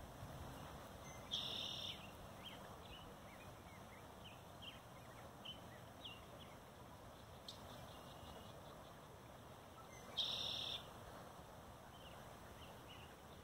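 Birds calling in flooded riverside brush: scattered short high chirps and two louder buzzy calls about nine seconds apart, over a faint steady rushing noise.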